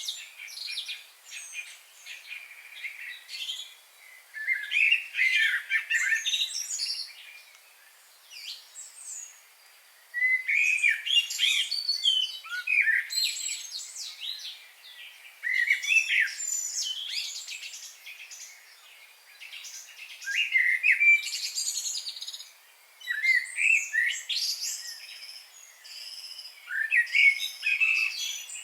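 Songbirds singing outdoors in repeated phrases of quick, high chirps and warbles. The phrases come every few seconds, with short pauses between them.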